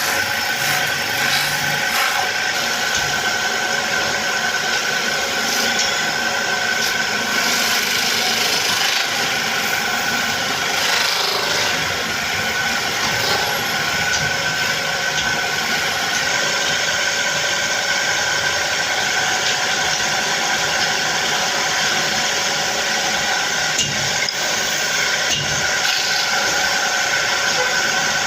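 Woodworking machine running steadily with a constant motor whine, while wood is rubbed or abraded against it.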